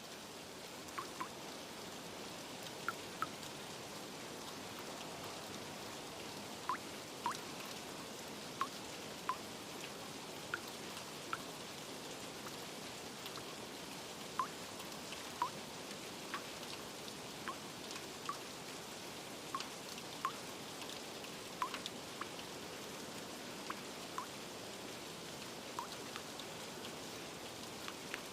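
Steady rain hiss with scattered single drips plinking at irregular moments, one or two a second.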